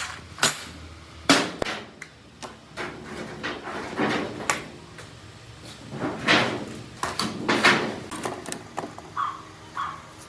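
A dozen or so irregular knocks and clanks from work on metal parts, with some scraping between them.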